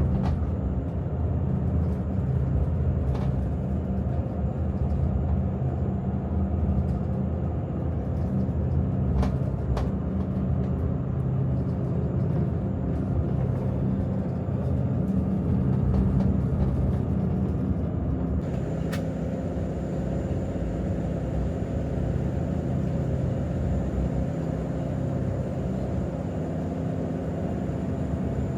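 Steady low rumble of a running vehicle engine, with a thin steady high tone above it and a few faint clicks.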